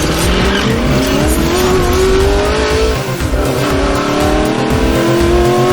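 Car engine accelerating hard: its pitch climbs, falls back about three seconds in, and climbs again.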